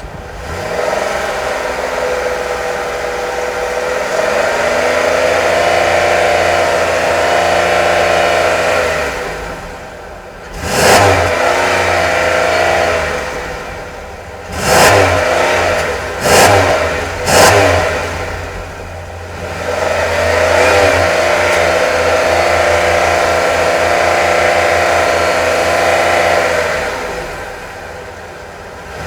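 A 3.8-litre pushrod V6 in a Buick LaCrosse is revved in neutral. It rises and holds at raised revs for several seconds, then drops back. It is blipped sharply four times, then held high again for several seconds before settling back down.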